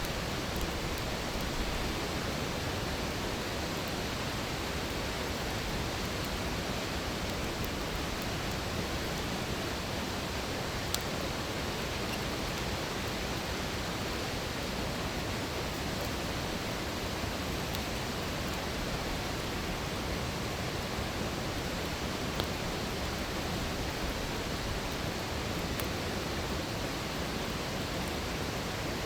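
Wood campfire burning in a fire stand, with a steady rushing hiss and a few short, sharp crackles, the clearest about eleven seconds in and again about twenty-two seconds in.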